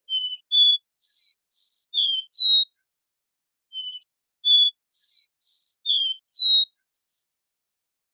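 Caboclinho (capped seedeater, Sporophila bouvreuil) singing: two phrases of short, clear, high whistled notes, the second phrase starting about halfway through.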